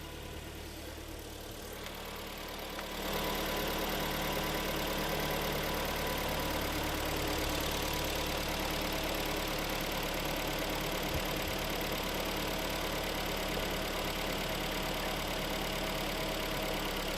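Freshly rebuilt Kia/Hyundai G4KD 2.0-litre four-cylinder petrol engine idling steadily on its first run after the overhaul, filled with break-in oil. It gets louder about three seconds in and then holds steady.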